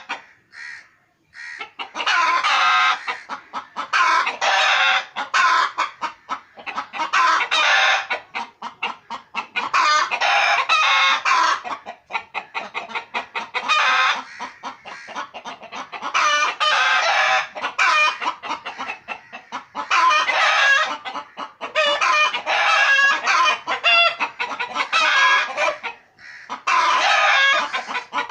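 Chickens clucking loudly, several birds calling over one another in rapid bouts about a second long with short gaps between.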